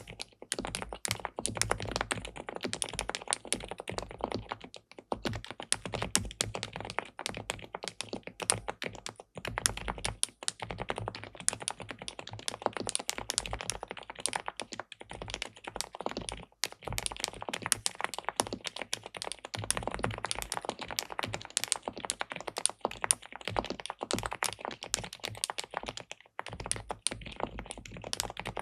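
Fast, continuous typing on an SPM PL87W tenkeyless mechanical keyboard with linear switches in a PC plate, with brief pauses a few times.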